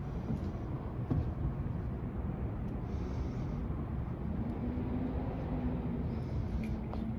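Steady low rumble of vehicle noise, with a faint steady hum joining a little past halfway and a few light clicks.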